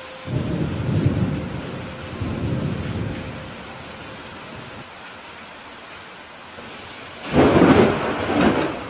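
Steady rain falling, with low thunder rumbles about a second in and again a little later. Near the end comes a sudden, loud thunderclap that rolls on in two peaks.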